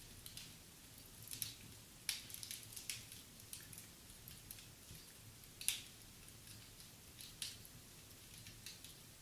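Wood fire crackling in a fireplace: irregular sharp pops and snaps, the loudest just before six seconds in, over a faint low hum.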